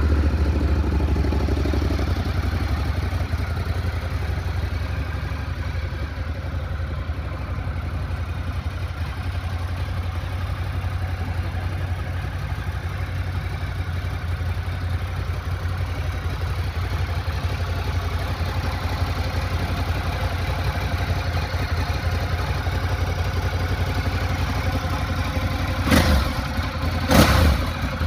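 Ducati Monster 1200R's 1198 cc L-twin engine idling steadily just after starting, then blipped twice near the end.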